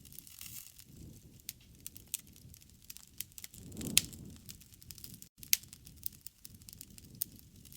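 Wood fire crackling, with many sharp pops and snaps over a low rumble of the flames; the loudest pop comes about four seconds in, as the rumble briefly swells.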